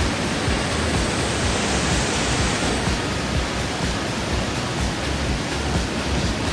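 A steady rushing noise, loud and even throughout.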